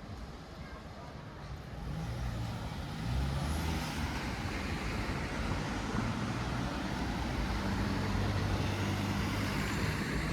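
A heavy road vehicle's engine running close by, with a low steady hum and road noise. It grows louder about two seconds in and stays loud.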